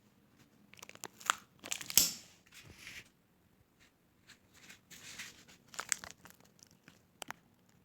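Irregular crinkling and rustling handling noises broken by sharp clicks, the loudest about two seconds in and a quick pair of clicks near the end.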